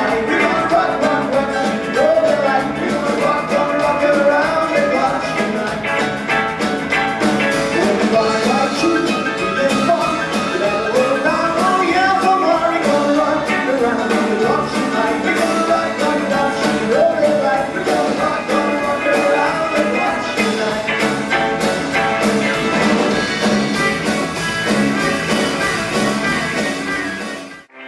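Rock band playing live with drums. The music cuts off abruptly near the end.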